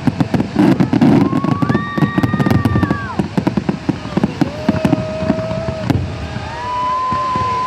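Fireworks crackling and popping in quick, irregular bursts over crowd noise, with several long, steady whistle-like tones on top.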